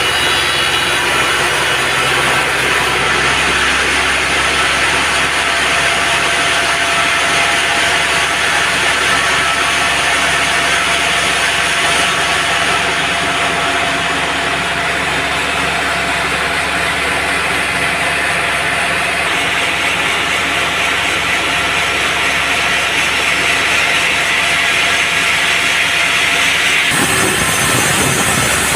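Band sawmill running and sawing through a teak log: a steady engine hum under the dense hiss of the blade in the wood. About 27 s in, the low engine hum drops away and the sound turns rougher.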